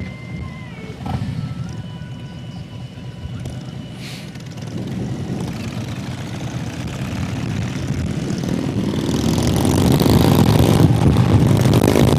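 Motorcycle engine running under way, getting louder as the bike speeds up over the middle of the stretch, with wind noise on the microphone rising along with it.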